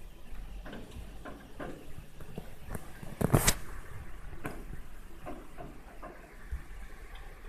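Rain: irregular drops tapping on a surface over a faint low rumble, with one louder clatter about three seconds in.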